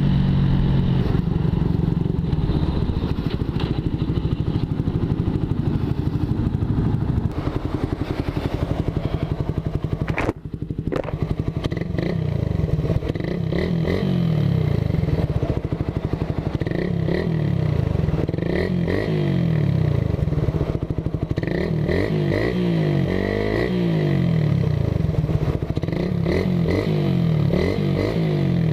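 Suzuki Raider 150's four-stroke single-cylinder engine through an open big-elbow, big-tip exhaust with no catalytic converter, revving up and down repeatedly as the bike is ridden. The level drops sharply and briefly about ten seconds in, and the pitch rises and falls over and over in the second half.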